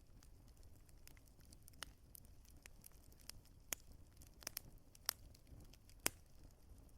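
Wood fire crackling faintly: a handful of sharp pops and snaps from the burning logs, scattered irregularly over a low steady rumble of the flames.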